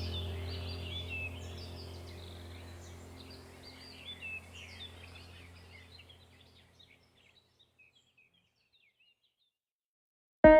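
Birds chirping and calling over a low steady drone, as in a nature-ambience background track, fading out to silence over about seven seconds. Plucked guitar music starts just at the end.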